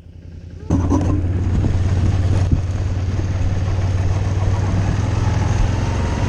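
FPV racing quadcopter's four EMAX 2205 2300KV motors and propellers running, a steady hum with rushing noise, cutting in suddenly about a second in.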